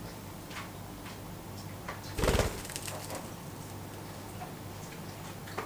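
Pet budgerigars chirping faintly, with one brief louder thump a little over two seconds in.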